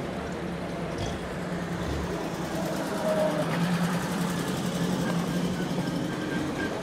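Engines of old cars running at walking pace, a steady low hum that grows louder about halfway through, with voices of people around.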